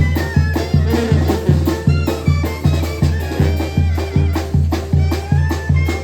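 Brass band music: a deep bass note and drum hit on each beat, about two a second, under a wavering reed and brass melody.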